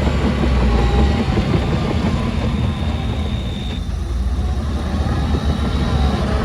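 Heavy diesel earthmoving machinery running steadily with a deep rumble that eases slightly about halfway through, with a faint high whine that cuts off near the middle.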